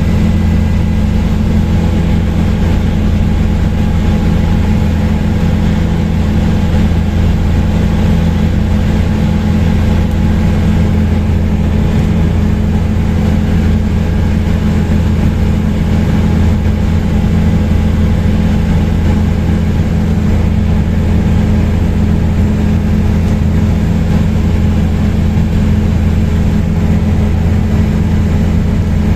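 Helicopter in flight heard from on board: a loud, steady drone with a strong low hum and several steady tones above it, unchanging throughout.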